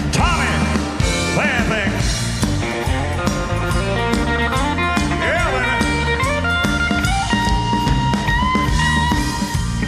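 Live band playing an instrumental break in a country-rock song: drums and bass under a lead electric guitar playing bending notes, with steady held notes joining in the second half.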